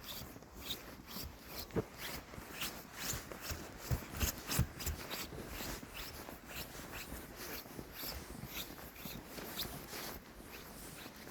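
Footsteps crunching through snow while walking: an irregular run of short crunches, a few louder ones around two seconds and four to five seconds in.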